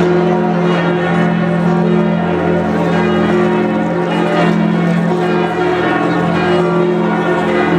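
Notre-Dame de Paris cathedral bells pealing, several bells ringing at once so that their tones overlap into one continuous, loud wash of sound.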